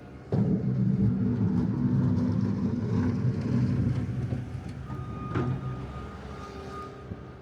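A large motor vehicle's engine running close by, starting suddenly and loudly and fading away after about four seconds. From about five seconds in, a vehicle's reversing alarm begins sounding in long, even beeps.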